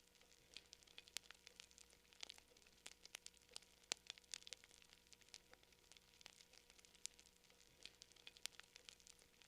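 Wood campfire crackling faintly: irregular sharp pops and snaps, several a second, over a soft hiss.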